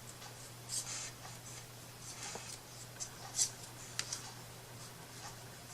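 Soft, scattered rustles, scrapes and light taps of hands handling and placing small craft pieces, with a sharp click about four seconds in, over a faint steady hum.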